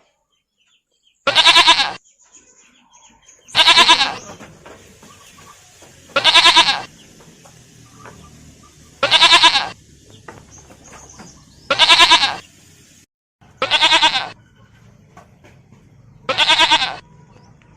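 Goat bleating: seven loud bleats, one about every two and a half seconds, each under a second long with a wavering, quavering pitch.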